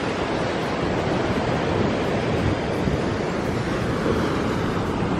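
Steady rush of wind and ocean surf, with wind buffeting the microphone.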